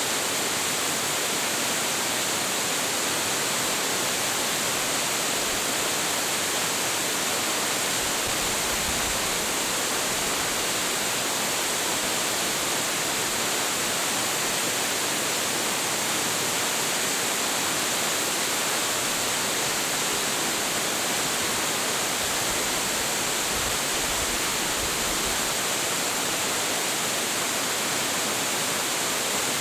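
Large waterfall pouring steadily into its plunge pool, a dense even rush of falling water, strongest in the upper hiss. A faint low rumble comes and goes twice.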